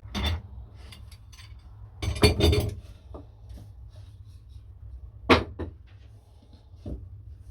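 Scattered knocks and clatter of workpieces and tools being handled and set down on a workbench, with a cluster about two seconds in and the sharpest knock about five seconds in.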